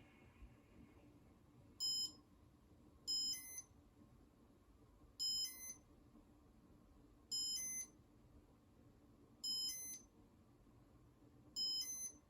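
Casablanca Comfort Touch ceiling-fan control beeping as it runs its test (demo) mode: six short electronic chirps, each a quick run of a few high tones, about every two seconds.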